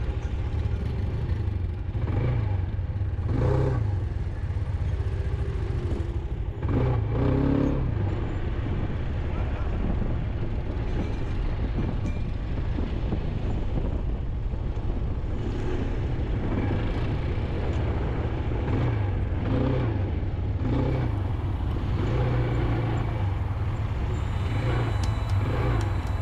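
Quad bike engine running under way, its pitch rising and falling as the throttle changes.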